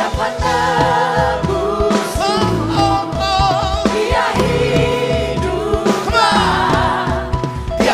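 Praise and worship music: several voices singing a Christian worship song with vibrato over a band with bass and drums.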